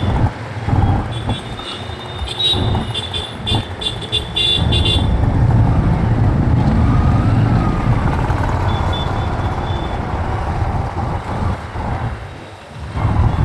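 Riding through city traffic on a motorcycle: engine and wind rumble that swells loud about four seconds in and dips briefly near the end. In the first few seconds a vehicle gives a run of rapid high-pitched beeps.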